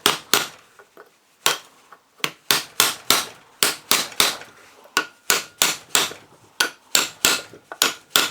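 Steady, light hammer blows, about three a second, on the rim of a starter motor solenoid's housing, bending its edge over to close the solenoid cap. There is a short pause after the first two blows, and some blows leave a faint metallic ring.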